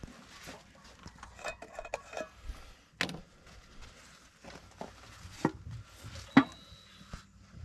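Scattered clicks and knocks, with three sharper knocks about three, five and a half and six and a half seconds in.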